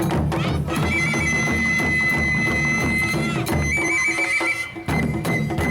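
Japanese taiko drums playing a steady beat, with a high held flute melody that trills over it. The drumming breaks off about three and a half seconds in, and a few final loud strikes close the piece near the end.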